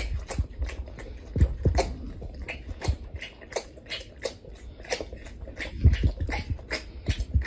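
A pet animal chewing or biting, making an irregular run of short clicks and crunches, two or three a second.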